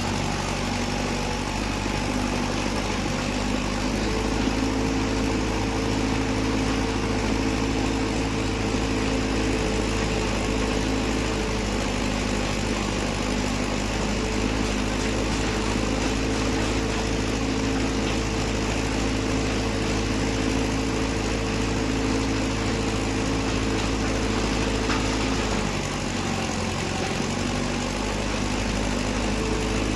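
Tractor's diesel engine running steadily with a constant hum, easing briefly about 26 seconds in.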